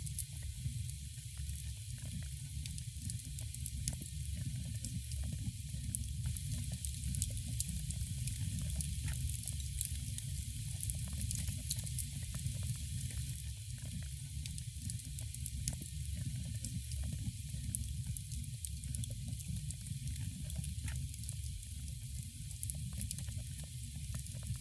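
Wood fire burning in a fireplace, crackling and popping with many small irregular snaps over a soft hiss, and a steady low rumble underneath.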